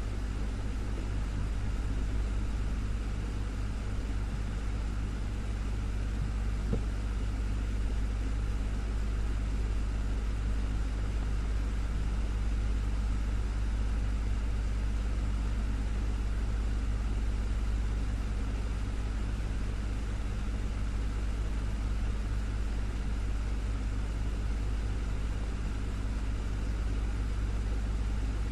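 Desktop fan running steadily: an even low motor hum under a constant rush of air, with no change in speed.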